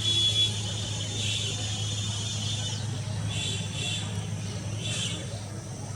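Small birds chirping in short high clusters every second or two, over a steady low hum.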